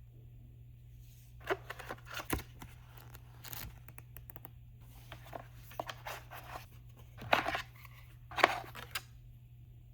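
Packaging of a skincare wand being opened by hand: irregular bursts of tearing, snipping and crinkling of box and wrapping, the two loudest near the end, over a steady low hum.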